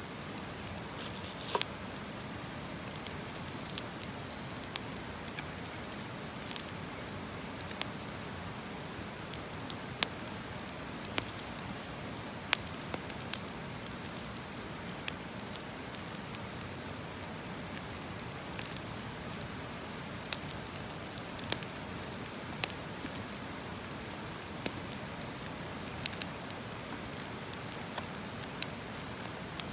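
Wood campfire burning, a steady hiss broken by irregular sharp crackles and pops, a few every couple of seconds.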